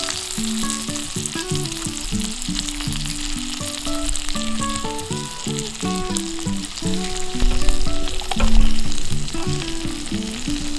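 Steady sizzling and crackling of food cooking over a campfire, under instrumental background music playing a stepping melody.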